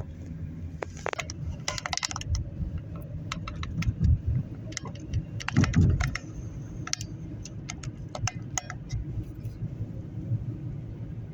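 Road rumble inside a moving car, with irregular light clicks and rattles throughout. There are two heavier bumps about four and six seconds in.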